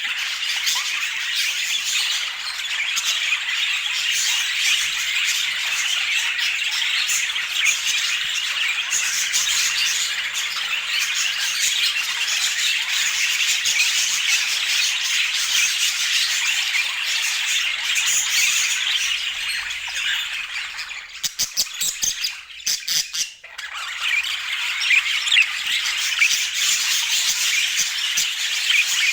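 Budgerigars chattering and squawking without a break, many quick high calls overlapping. About three-quarters of the way through the chatter drops away briefly and a few sharp clicks are heard, then it resumes.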